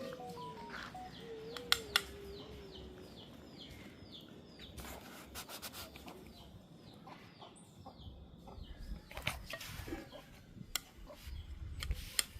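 A bird chirping a quick run of short, falling notes, about three a second, for the first few seconds, with scattered sharp clicks and knocks through the rest.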